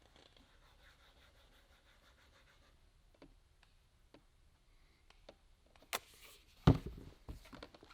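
Faint background with a few light ticks, then a sharp click and a louder knock near the end, followed by a few smaller knocks.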